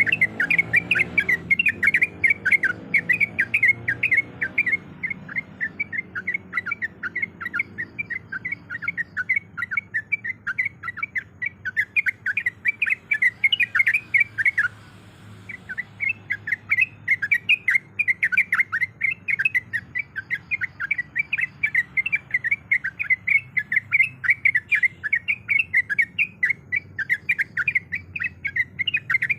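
Sooty-headed bulbul (trucuk) calling in a fast, unbroken run of sharp chirps, several a second. The run breaks off for about a second roughly halfway through, then resumes.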